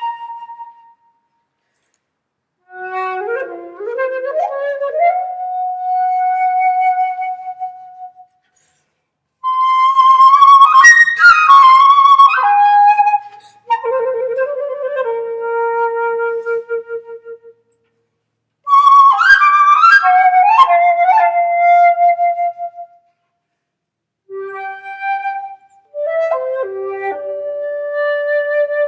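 Flute playing short phrases of quick rising runs that settle on held notes, with about a second of silence between phrases.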